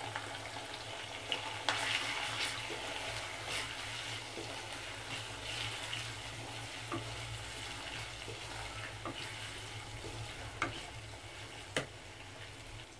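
Bitter gourd pieces and ginger-garlic paste frying in oil in a kadai on a low flame, a steady sizzle, while a wooden spatula stirs them with a few sharp taps against the pan.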